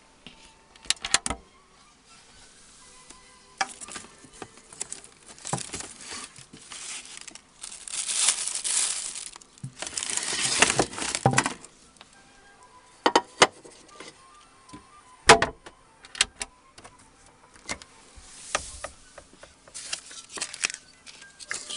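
Small hard objects clinking and clattering as they are handled, with one sharper knock in the second half. Two longer hissing rushes come one after the other about halfway through.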